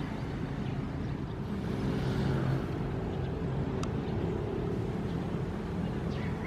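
Ocean waves as a steady low rumble, with one wave washing up more loudly about two seconds in and a faint click near four seconds.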